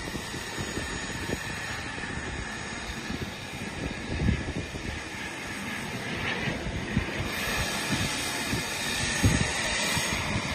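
Twin Kingtech K45TPG4+ model turboprop engines running steadily: a thin turbine whine over a steady rushing noise.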